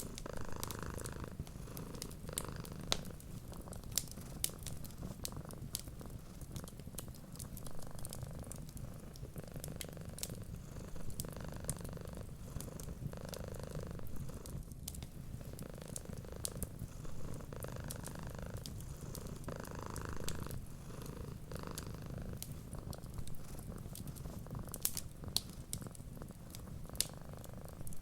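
Domestic cat purring steadily and close, swelling and easing with each breath every second or two, over the scattered pops and crackles of a wood fire in a fireplace.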